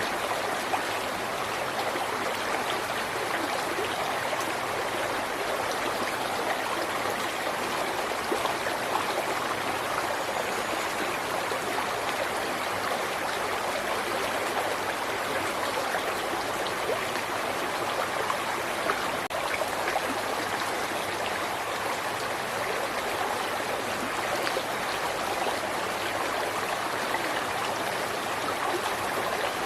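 A river flowing steadily, with water rushing and babbling over rocks.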